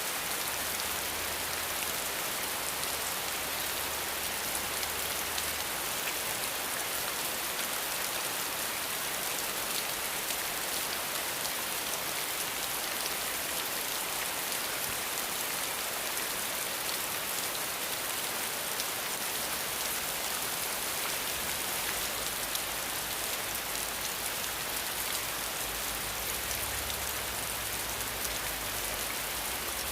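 Steady, dense rainfall: an even hiss of many drops hitting a surface. A faint low rumble comes and goes underneath, near the start and again in the last third.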